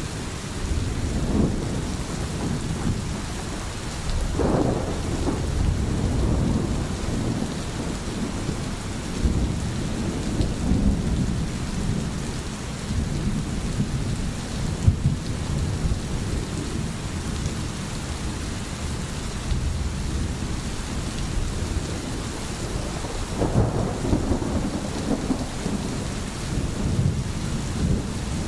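Steady rain hissing, with low rolling thunder rumbling underneath and swelling about four seconds in and again near the end.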